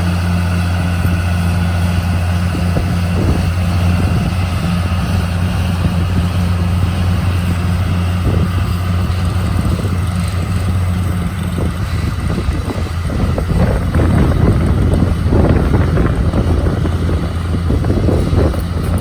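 An engine running steadily with a low, even hum; rougher, louder noise joins it from about two-thirds of the way through.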